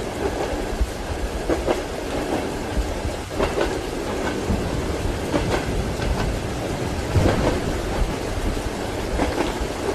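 Train wheels clacking over rail joints with a steady rumble, heard from inside a passenger compartment, under steady rain.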